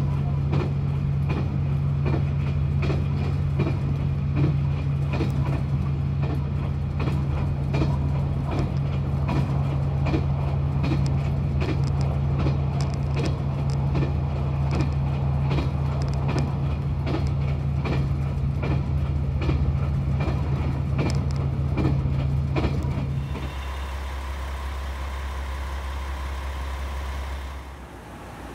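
Running noise of a moving train heard from inside the carriage: a steady low drone with a regular clicking of the wheels over rail joints. A little over twenty seconds in it gives way to a quieter steady hum with a faint high tone, which drops lower again near the end.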